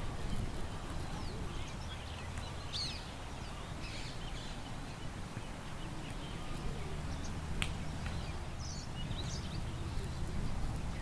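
Small birds chirping and twittering in scattered short calls over a steady low rumble of wind, with one sharp click a little past halfway.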